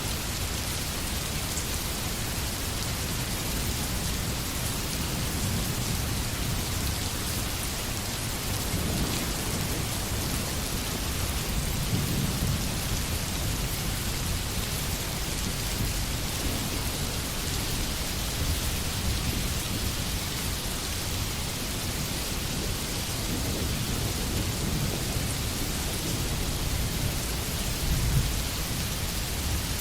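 Steady rain falling in a forest, an even hiss of drops on leaves and ground. Low rumbles of distant thunder swell under it a few times, strongest about a third of the way in and briefly near the end.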